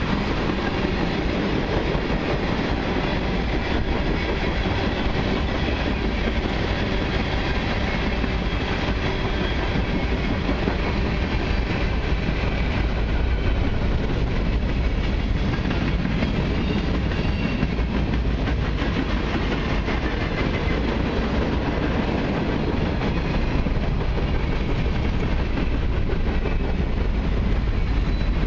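Freight cars of a long mixed freight train rolling past: tank cars, centerbeam flatcars and covered hoppers, their steel wheels running on the rails in a steady, continuous rumble.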